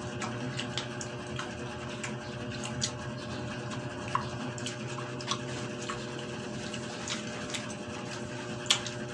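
Wet chewing and mouth sounds of people eating fresh pineapple chunks, with scattered small clicks, over a steady low hum.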